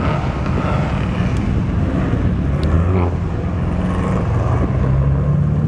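Car engine running close by, its pitch rising toward the end as it revs.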